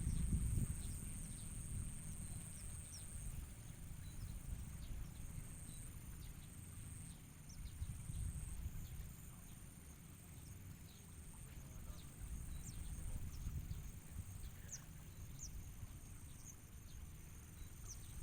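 Scattered faint, short, high bird chirps over a steady high-pitched insect drone, with a low rumble of wind on the microphone.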